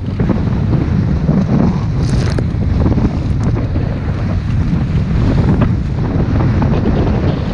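Wind rushing over the microphone on a motorboat under way, with water splashing along the hull and a brief hiss of spray about two seconds in.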